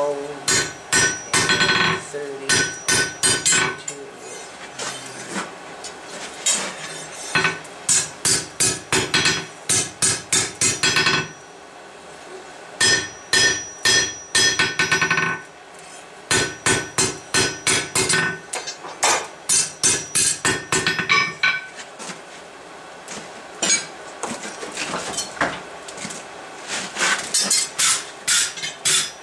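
Hand hammer striking a steel bar on an anvil, drawing the bar out. The blows come in runs of about three a second, each ringing, with short pauses between the runs.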